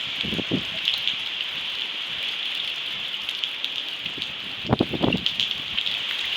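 Heavy rain pouring steadily, with short low gusts of wind on the microphone about half a second in and again near five seconds in.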